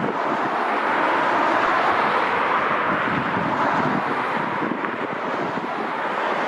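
Jet airliner engines, a loud, steady rushing noise with no change in pitch.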